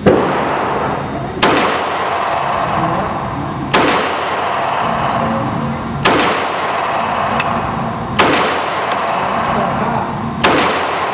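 CZ 97B .45 ACP pistol firing Armscor 230-grain ball, six shots at a slow, steady pace about two seconds apart.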